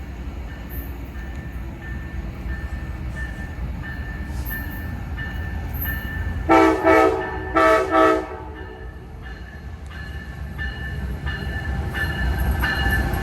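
Train horn sounding two short blasts about a second apart, over the steady low rumble of a train at the station that grows louder near the end.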